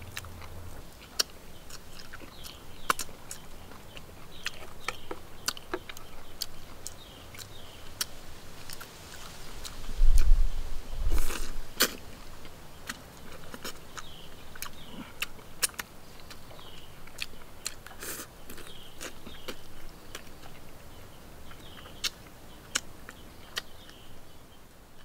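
Close-up chewing and biting of cooked duck, with many sharp wet clicks and cracks scattered irregularly, and a couple of heavy low thumps about ten seconds in.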